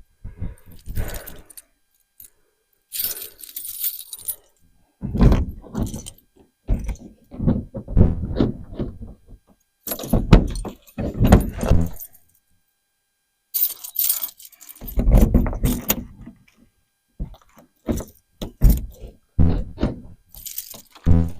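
Keys jangling, with metal clinking and clunking in short irregular bursts, as a key is worked in a lock to lock it.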